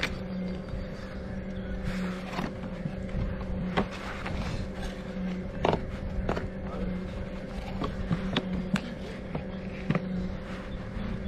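Bicycle rolling along a road: a steady hum with low rumble, and scattered clicks and rattles.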